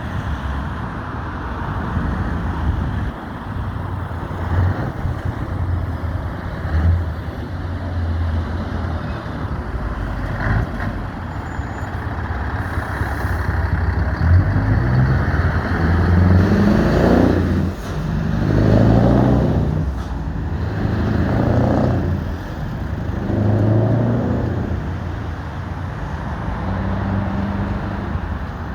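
Heavy truck and tractor engines running as a procession goes by, a steady low rumble. In the second half the engines swell and fade four times.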